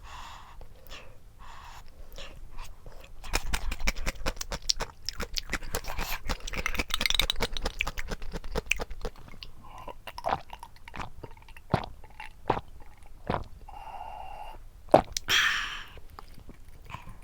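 Close-up eating sounds: someone chewing and crunching food, with a run of dense crackles in the middle and scattered sharp clicks later on.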